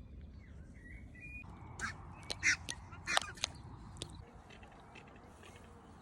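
Waterfowl calling: a handful of short, sharp calls between about two and four seconds in, over a faint outdoor background.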